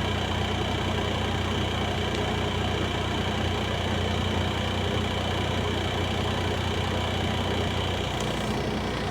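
Heavy earthmoving machine's diesel engine running steadily with a low hum; its deepest tone drops away about eight seconds in.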